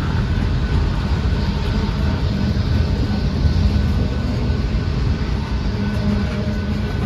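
Freight train rolling past close by: a steady, loud rumble of wheels on the rails and the cars, with no pauses or sudden events.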